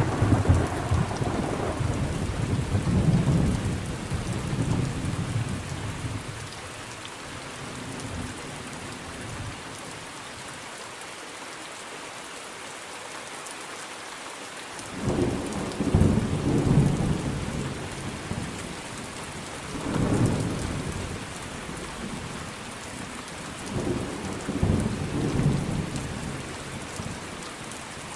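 Thunderstorm: steady rain hissing throughout, with deep rolls of thunder. A rumble at the start dies away within the first several seconds, leaving rain alone for a while, then fresh rolls of thunder come about halfway through and twice more toward the end.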